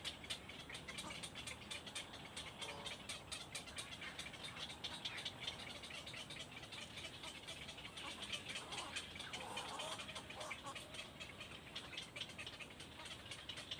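Rapid, continuous high chirping from small birds, with a few lower, wavering calls about eight to ten seconds in.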